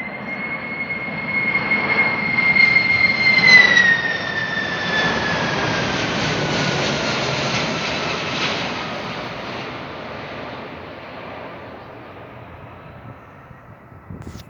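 Boeing 747 jet flying low overhead, its four turbofan engines giving a loud whine. Near its loudest, about three and a half seconds in, the whine drops in pitch as the plane passes, then slowly fades away.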